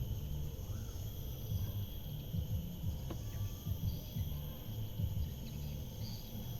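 Wind buffeting the microphone in uneven low gusts, over a steady high drone of insects such as crickets. A single faint click about three seconds in.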